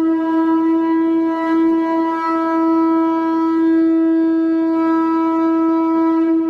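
Conch shell trumpet blown in one long, steady, held note at a middle pitch, without a break.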